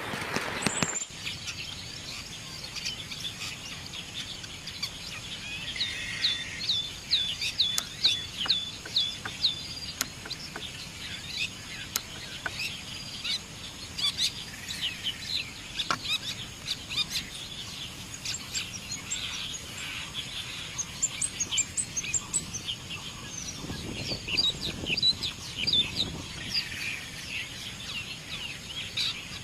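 A shrike singing: runs of quick, sharp, repeated high notes mixed with scratchy chattering phrases, over a faint steady high-pitched hum and background hiss.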